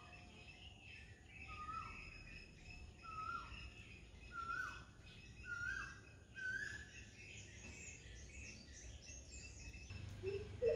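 Birds calling outside: one bird repeats a short whistled note about once a second, each a little higher than the last, over fainter chirping from other birds.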